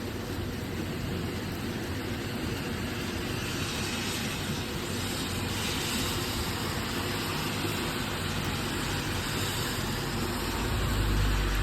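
Steady rush of heavy thunderstorm rain and wind, with a deep low rumble swelling near the end.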